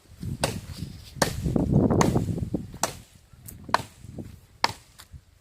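Axe chopping wood: about six sharp strikes a little under a second apart, with a low rumbling noise under the early strokes.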